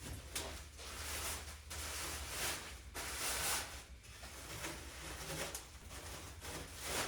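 Cardboard parts box and its packing being handled and opened, rustling and scraping in several swells.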